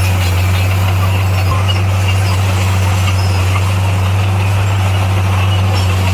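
Heavy diesel earthmoving machine running steadily: a constant low engine hum with no change in pitch or load.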